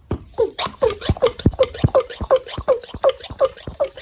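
Hand-operated sprayer of rinseless wash worked in quick repeated strokes, about three to four a second, each stroke a click with a short squeak and a hiss.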